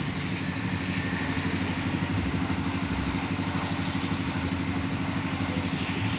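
An engine running steadily at idle with an even hum.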